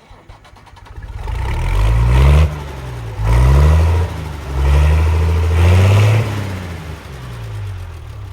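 An engine revving up and dropping back about three times, rising in pitch with each rev, then easing off near the end.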